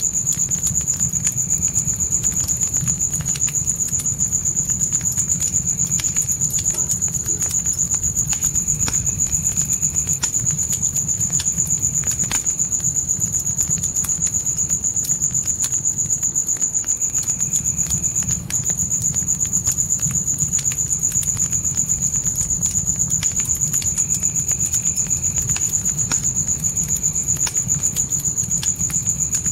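Crickets chirping in a steady, fast-pulsing high trill over a campfire crackling, with scattered small pops and a low steady rumble of the flames.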